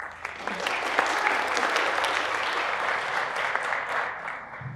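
Audience applauding, a dense patter of many hands clapping that starts at once, holds steady and dies away near the end.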